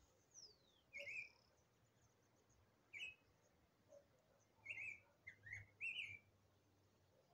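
Small songbirds singing faintly: a high whistle sliding down in pitch, then short chirping notes spaced a second or two apart, with a quick run of several chirps about five seconds in.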